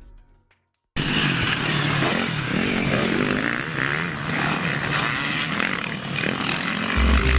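Motocross motorcycle engines revving, their pitch rising and falling as the throttle opens and closes, cutting in suddenly after about a second of silence. A deep bass from music comes in near the end.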